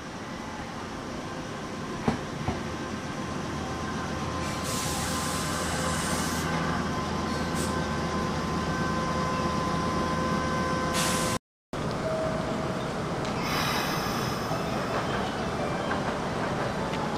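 A Sanyo Electric Railway 3000 series electric train pulls in and slows to a stop, growing louder, with steady high squealing tones and short bursts of hiss. After a cut, another train runs at a second station and there is a further burst of hiss.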